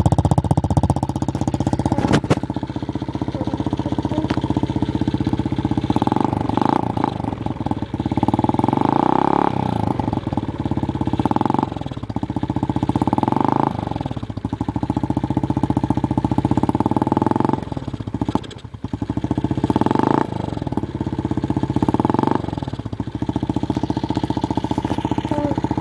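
Small 90cc motocross bike engine running, revved up briefly about every few seconds, its pitch rising and falling back with each blip of the throttle.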